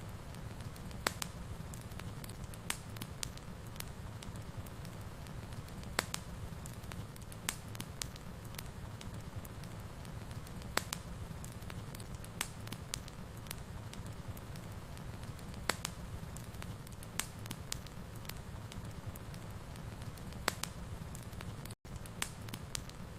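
Wood fire in a fireplace crackling, with irregular sharp pops over a steady low rumble of the flames. The sound cuts out for an instant near the end.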